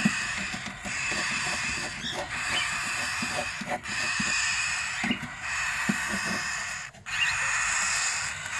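Cockatiels at a nest box: a steady hiss broken by a few short gaps, with a few brief chirps and soft scratching taps.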